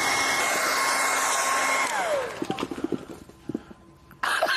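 Hair dryer blowing on high with a steady whine, drying a wet dog. About two seconds in it is switched off and the whine falls in pitch as it winds down, followed by a few small clicks and a brief loud burst near the end.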